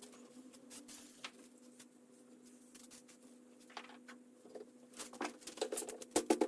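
Scattered light clicks, taps and scrapes from handling and working on rusty metal parts, getting busier and louder near the end, over a steady low electrical hum.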